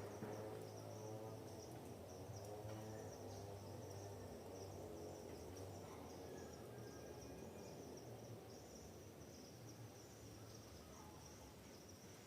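Faint, steady chirring of insects in a pulsing high-pitched trill, over a low, steady rumble.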